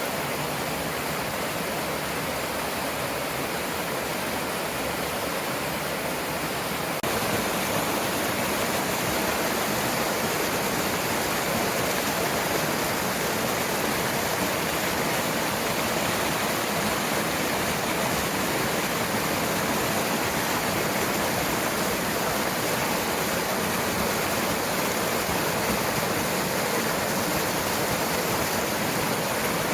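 Mountain stream water rushing over rocks, a steady dense rush that gets a little louder about seven seconds in.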